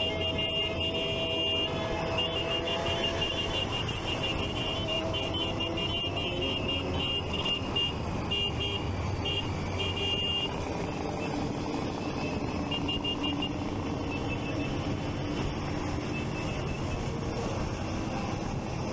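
Motorcycle and traffic noise on a group ride, with engines running and shifting in pitch. Over it, a high electronic beeping in rapid pulses fades out about two-thirds of the way through.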